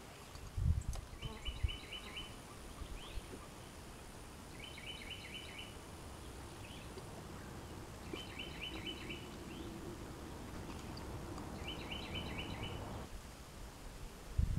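A bird singing a short phrase of about five quick, evenly spaced notes, repeated four times about every three and a half seconds, with a few low thumps in the first two seconds.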